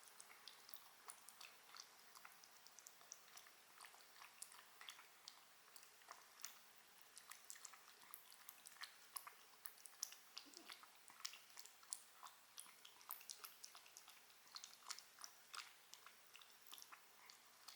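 A pet chewing food: a steady run of small, sharp, irregular clicks of biting and chewing, several a second.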